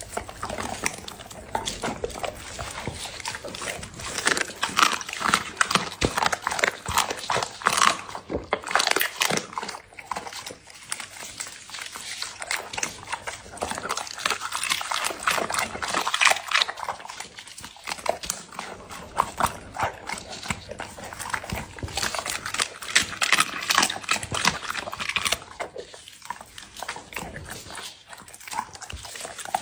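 A Labrador eating a raw meal with bones such as quail and duck necks: rapid crunching and chomping in bouts, with short pauses between them.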